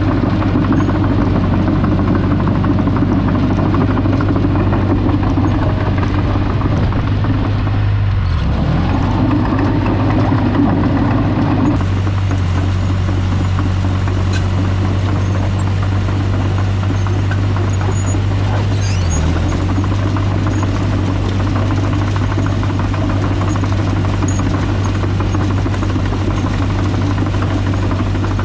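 A vehicle engine running steadily at a constant speed, with a strong low hum. The engine's pitch dips briefly twice, about eight and nineteen seconds in.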